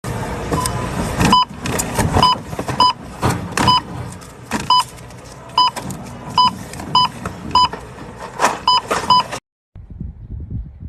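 About a dozen short electronic beeps at irregular intervals, over a noisy rumbling background. The sound cuts off abruptly near the end.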